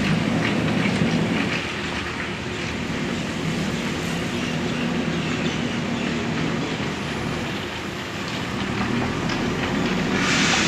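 Backhoe loader's diesel engine running steadily, with scattered metallic clanks and scrapes, and a short burst of hiss near the end.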